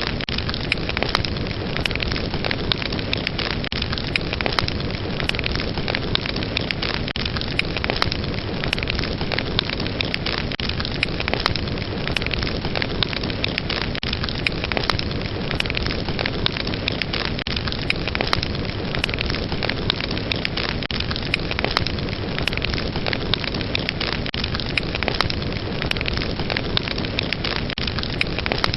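Fire burning steadily: a continuous rush of flames with many sharp crackles and pops scattered through it.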